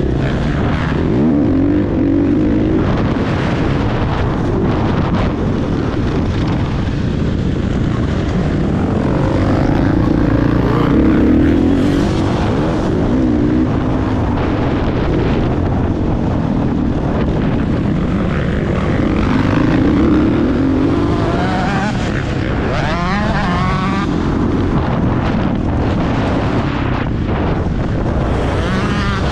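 Motocross motorcycle engine revving up and down over and over, with wind noise on the microphone.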